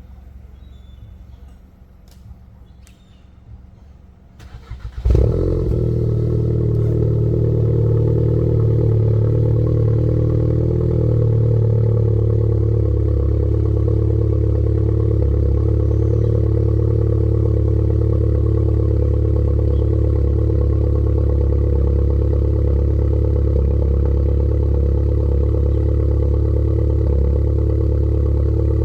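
Volkswagen Golf 7 GTI's turbocharged 2.0-litre four-cylinder engine on a straight-pipe exhaust, cold-started: a brief crank about five seconds in, a loud flare as it catches, then a steady, loud idle.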